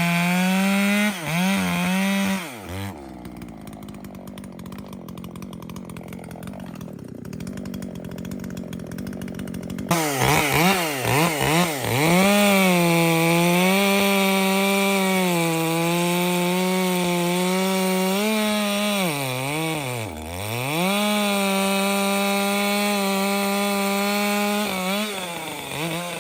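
Ported, muffler-modded Echo CS-620PW 60cc chainsaw running at high revs while cutting wood. Its pitch sags and recovers under load, and it drops right down once, around twenty seconds in. For several seconds early on the saw falls away to a quieter background, then comes back suddenly at full throttle.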